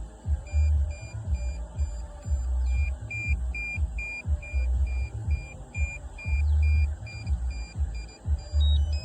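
DJI Avata 2 motion controller beeping: a steady string of short, high beeps at about two a second, with a brief run of beeps at changing pitch near the end. Low rumbling thuds sound underneath.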